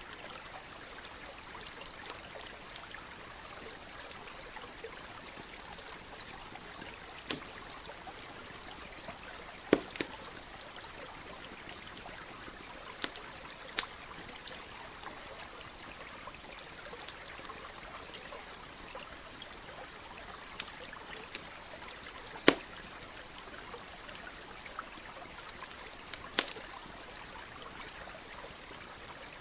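Campfire crackling, with a handful of sharp pops from the burning wood standing out, over the steady trickle of a nearby stream.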